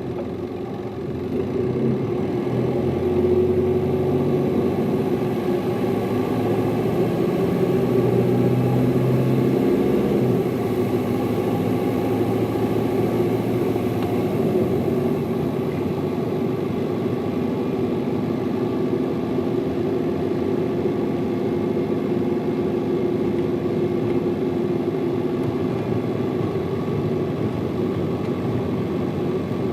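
Hino Liesse small city bus's diesel engine, heard on board, pulling away and accelerating. The engine note climbs for several seconds, changes about ten seconds in as it shifts gear, then runs steadily under load.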